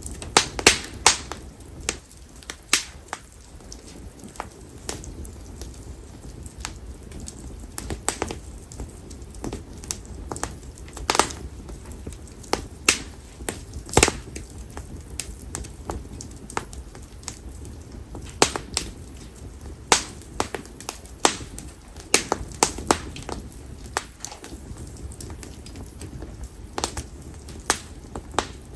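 Campfire of split konara oak logs crackling, with irregular sharp pops and snaps, a few of them loud, over the low steady rumble of the flames.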